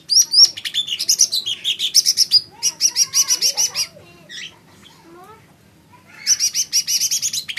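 Cucak ijo mini (small green leafbird) singing: fast runs of high, sharp chirps in two long bursts, with a pause of about two seconds in the middle holding only a few fainter, lower sliding notes.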